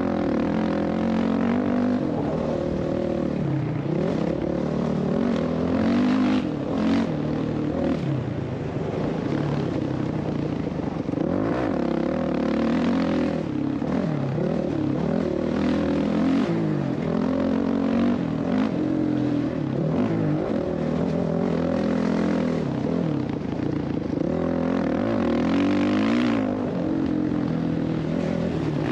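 Motocross dirt bike engine revving up and down over and over as the throttle is opened and closed.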